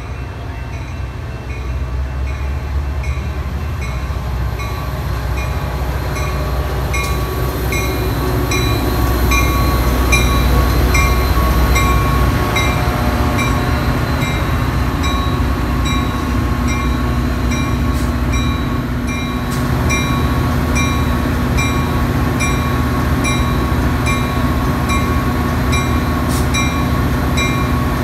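A train passing close by: a steady rumble that grows louder over the first ten seconds or so. Over it a bell rings evenly, about twice a second.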